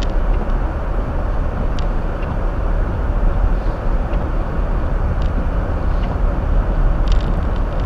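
Steady road and tyre noise with a low engine hum inside the cabin of a 2023 Hyundai Elantra driving slowly on a snow-covered road.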